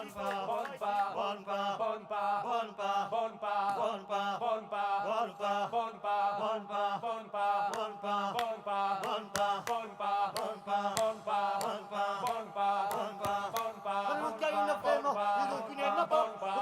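A song performed live: voices chanting a melody over a steady low drone, with sharp percussive clicks about twice a second.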